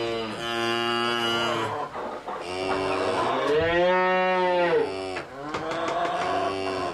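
Cows mooing, about four long calls one after another; the loudest, in the middle, rises and falls in pitch.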